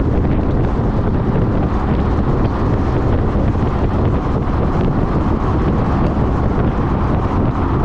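Steady wind rushing over the microphone of a motorcycle at road speed.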